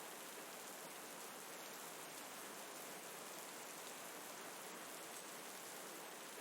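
Steady rain falling, an even dense hiss with no pauses or separate crackles.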